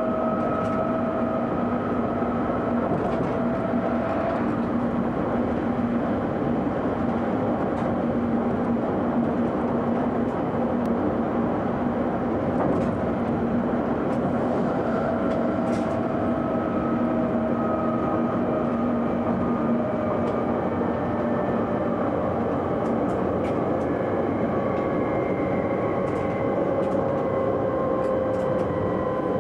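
Train running along the line, heard from inside the driver's cab: a steady rumble of wheels on rail with a hum of several tones that drift slowly in pitch, and a few faint ticks.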